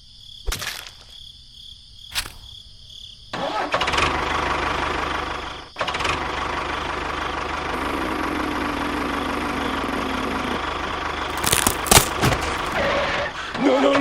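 A couple of sharp clicks, then an engine starts about three seconds in and runs loud and steady, dropping out for a moment near six seconds before running on; a few sharp knocks near the end.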